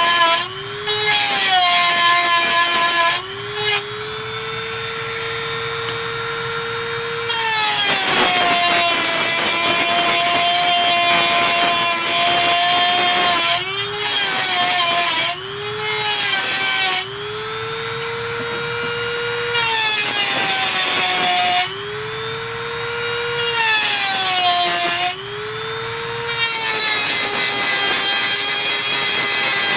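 Small electric power tool whining as it works off the old basket hinges. Its motor pitch sags and recovers every few seconds as it bites and eases off, with harsher, grinding stretches while it is cutting.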